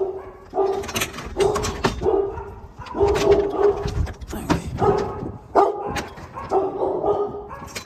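A dog barking repeatedly, short barks coming about one or two a second with brief gaps.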